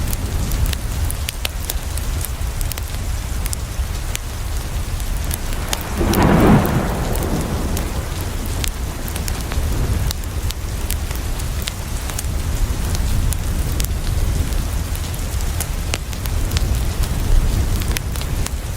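Steady rain on a window with the scattered snaps of a crackling wood fire. About a third of the way in, a short roll of thunder swells up and fades within about a second.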